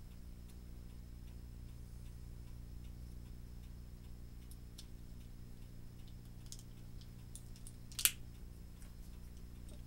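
A mechanical clock ticking steadily over a low steady hum. About eight seconds in comes a single sharp click, the loudest sound.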